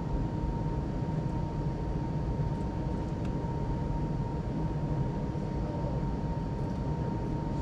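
A JCB Pothole Pro's diesel engine runs steadily, heard as a low rumble from inside the cab, with a thin steady whine over it.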